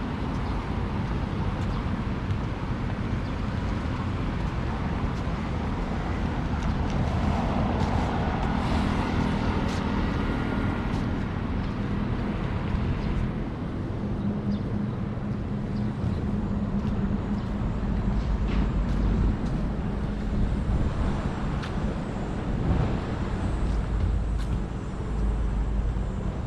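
Road traffic: a steady rumble of passing cars and heavier vehicles, with engine hum swelling as vehicles go by, loudest in the second half.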